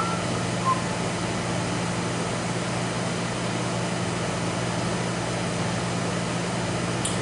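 Steady electrical hum and fan-like whir from a powered-up IGT S2000 slot machine sitting idle while it boots. A couple of faint short chirps come right at the start.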